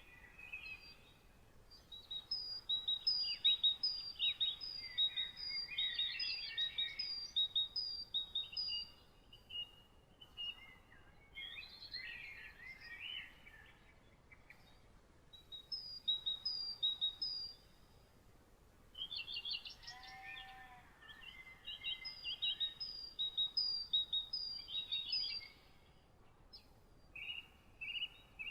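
Several songbirds singing together in a morning chorus: a high note repeated in a steady series of about two a second over busier warbled phrases, with a lower call of a few stacked tones about 20 seconds in.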